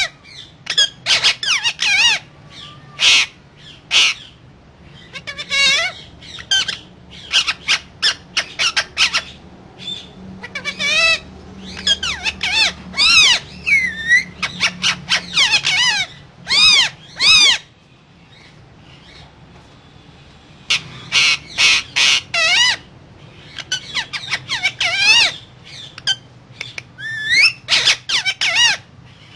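Pet parakeet squawking: a long run of short, harsh calls that slide up and down in pitch, coming in clusters with a pause of a couple of seconds past the middle.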